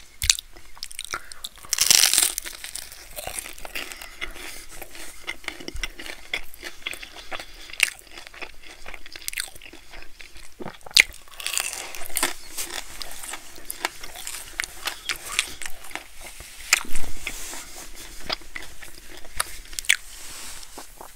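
A mouth biting into and chewing crunchy cheesy bread close to the microphone: wet chewing full of crackles, with louder crunches about two seconds in, around eleven seconds and around seventeen seconds.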